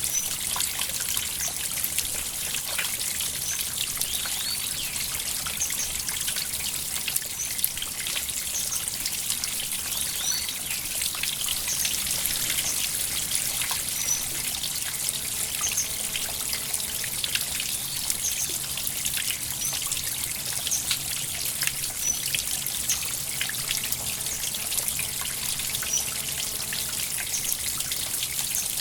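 Water trickling steadily, with a constant high hiss and many small bright plinks and drips scattered through it.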